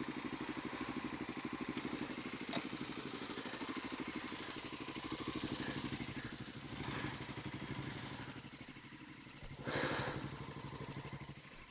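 Kawasaki KLX250S dirt bike's single-cylinder engine running at low revs with an even thumping pulse, with a click a few seconds in and a brief louder burst near the end. The engine sound then stops.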